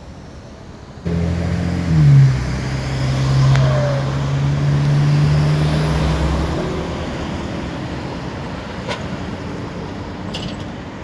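Motor vehicle engine running loudly at close range, starting abruptly about a second in. Its pitch drops once about two seconds in, at its loudest, then it fades slowly.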